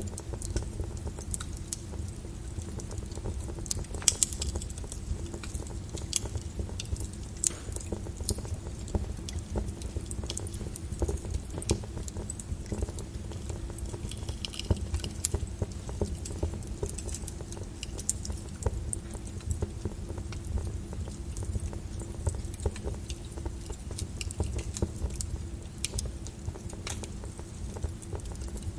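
Wood fire crackling with irregular sharp pops, the loudest about four seconds in, over a steady patter of rain on a window and a low rumble.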